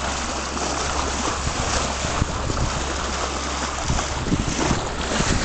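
Wind buffeting the microphone over the steady rush of water along a sailing yacht's hull underway at sea.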